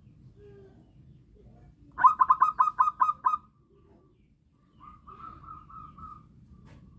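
Zebra dove (perkutut) cooing: a loud, rapid run of about eight short staccato notes about two seconds in, then a softer phrase of longer, smoother notes near the end.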